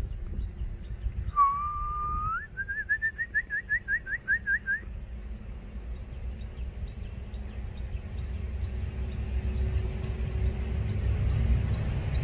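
A bird calls once: a held note that lifts at its end, then a quick run of about a dozen short rising notes, over roughly three seconds beginning about a second and a half in. A steady high-pitched tone runs underneath, with a low rumble that grows louder towards the end.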